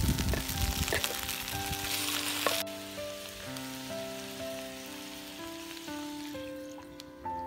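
Chicken, potato and onion frying in an oiled pan, a loud sizzle that cuts off sharply after about two and a half seconds. Background music with a slow, stepping melody plays underneath and continues alone after the sizzle stops.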